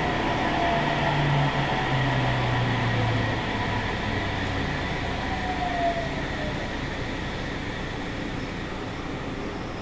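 Sendai Subway 1000N series train braking to a stop: the motor and inverter whine falls in pitch and dies away in the first few seconds, with a higher tone gliding down a little later, over steady running rumble and air-conditioning noise that slowly quiets as the train slows.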